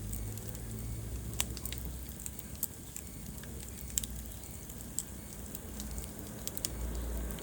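Wood fire burning in a fireplace, crackling with scattered sharp pops over a low rumble of the flames.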